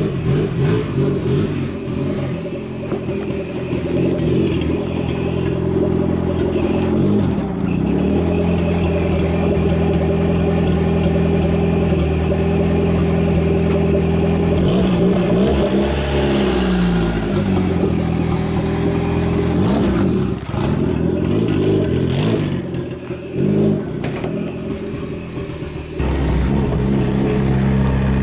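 Turbocharged Nissan SR20DE four-cylinder engine running as the car is driven, its note rising and falling several times with changes in revs over the second half.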